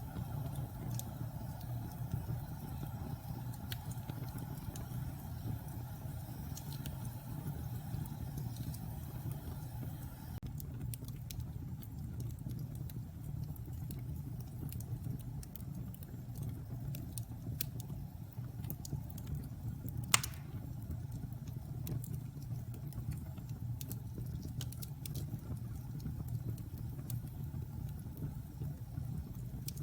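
Wood fire burning in a fireplace: a steady low rumble of flames with scattered small crackles and one loud pop about twenty seconds in.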